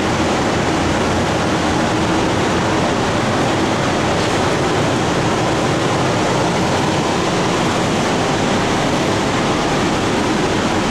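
A steady, loud rushing noise with no tone or rhythm in it.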